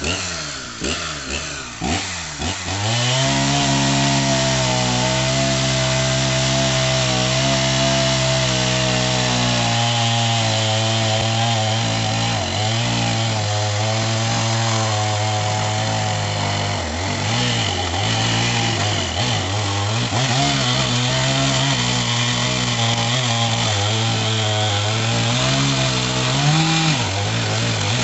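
Two-stroke chainsaw blipped up a few times, then held at high revs cutting through eucalyptus firewood, the engine note steady and then wavering as the chain works through the log. Near the end the pitch briefly jumps up, then settles back.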